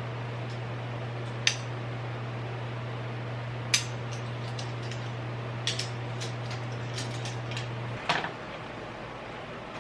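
Scattered light clicks and clinks of small household objects being handled, over a steady low hum that cuts off with a click about eight seconds in.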